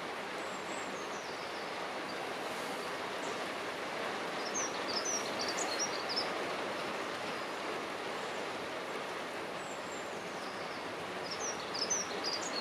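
Dunnock singing: two short, fast, high warbling phrases, one about four seconds in and one near the end, with fainter high notes before each, over a steady background rush of noise.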